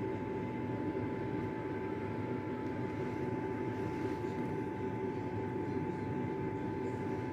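Steady machine noise in a workshop: a constant hum with a steady high whine, holding even throughout.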